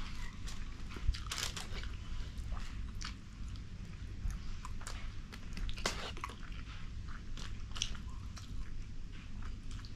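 Close-miked eating sounds: chewing, lip smacks and small wet clicks of people eating fish curry with rice, coming irregularly over a low steady hum.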